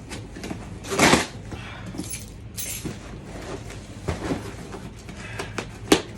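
A cardboard shipping box being opened and handled: irregular scraping, rustling and knocks, the loudest rustle about a second in and a sharp knock near the end.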